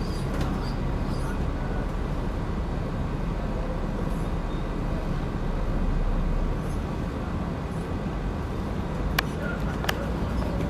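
Steady low rumble of outdoor background noise, with a few faint high chirps near the start and two sharp clicks about 0.7 s apart near the end.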